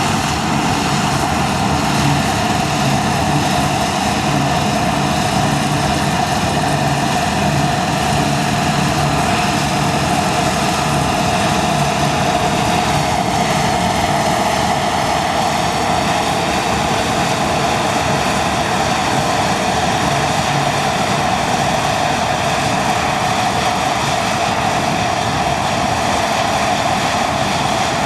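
Deutz-Fahr Topliner 4090 HTS combine harvester running steadily under load, a constant engine and machinery drone with no changes in speed.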